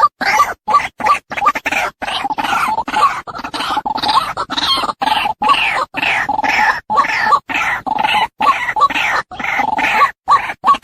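Female white-breasted waterhen giving its harsh, croaking "ruak-ruak" call over and over, a few calls a second with hardly a pause, as used to lure waterhens.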